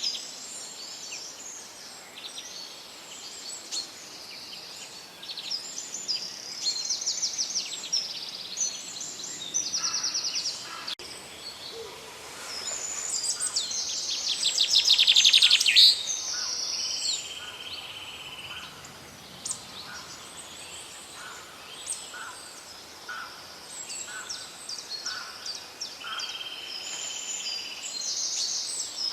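Several songbirds singing and calling at once, with many rapid trills and short chirps. One trill swells loudest about halfway through.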